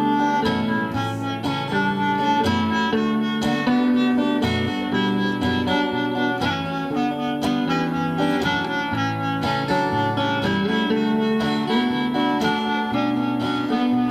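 Acoustic folk band playing an instrumental outro: strummed acoustic guitar keeping a steady rhythm under a sustained melody line of held notes.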